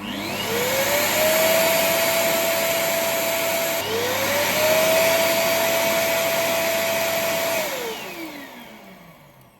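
ROIDMI X200 auto-empty dock's suction motor emptying the vacuum's dust bin in cycles. It whines up to speed and runs, drops briefly and spins up again a little under four seconds in, then winds down with a falling whine over the last two seconds.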